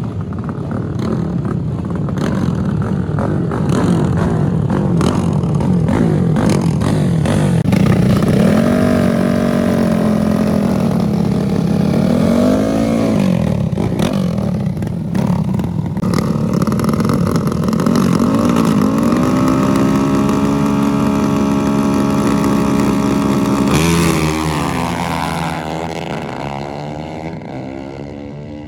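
Drag-racing motorcycle engine, revved up and down in pitch, then held steady at high revs. About 24 s in, its pitch drops and it fades away.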